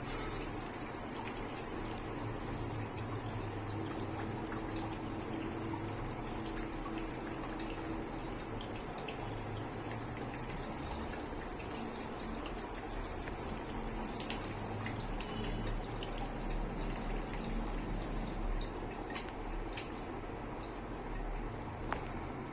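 Water running steadily, with a few sharp clicks near the end.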